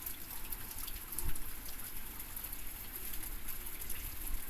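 Typhoon rain falling and rushing water, a steady hiss, with a brief low thump about a second in.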